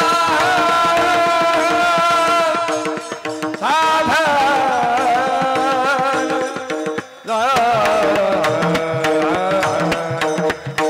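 Devotional kirtan singing: a voice holds long, wavering sung notes in three phrases, over a steady sustained accompaniment, tabla-like drumming and sharp cymbal strokes.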